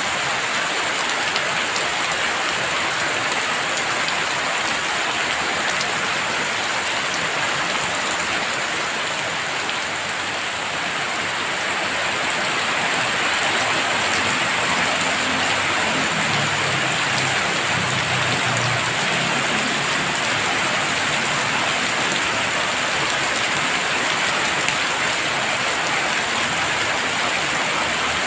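Heavy rain falling steadily, a dense unbroken patter that grows a little heavier about halfway through.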